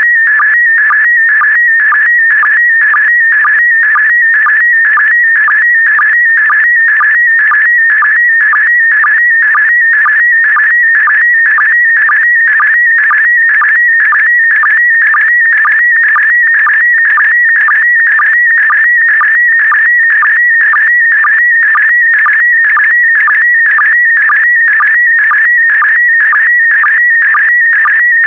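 PD120 slow-scan television (SSTV) image signal: a loud, high warbling tone that shifts pitch constantly as it carries picture lines, broken about twice a second by a short, lower sync blip. The transmission is mid-image.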